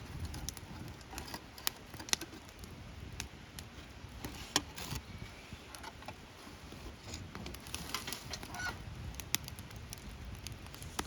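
Wood campfire crackling, with irregular sharp pops and snaps over a low rumble. A short higher-pitched sound comes about eight seconds in.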